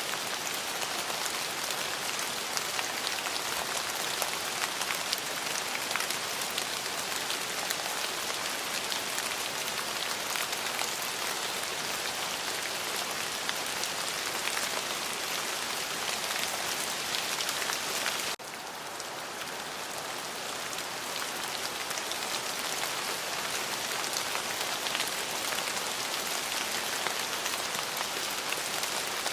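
Steady rain with a dense patter of individual drops. About eighteen seconds in it drops abruptly in level, then swells back up over the next few seconds.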